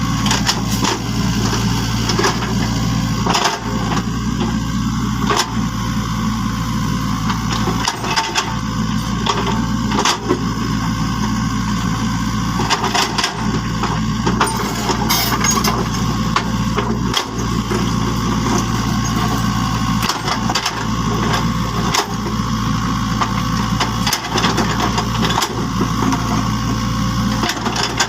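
A small motor runs with a steady low hum, with irregular clicks and knocks over it.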